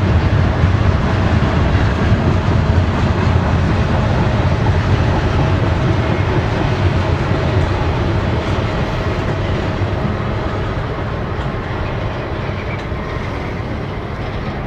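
Double-stack intermodal freight train's well cars rolling past, their steel wheels running on the rails in a steady, loud noise. It grows gradually quieter over the last several seconds as the end of the train goes by.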